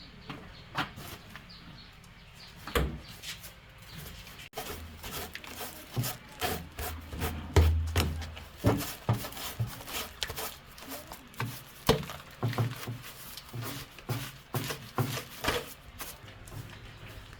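Irregular knocks, taps and scraping of hand-tool work, with a brief low hum in the first half.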